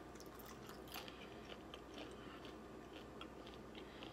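A person chewing a mouthful of breakfast food, with faint, irregular small crunchy clicks.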